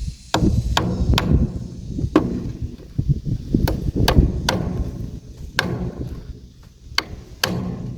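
A tool striking wood over and over: about ten sharp blows at uneven intervals, like chopping or hammering.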